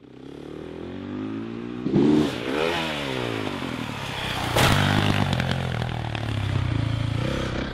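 Motocross motorcycle engine running and revving, its pitch sweeping up and down with the throttle about two seconds in, with a single sharp knock about halfway through.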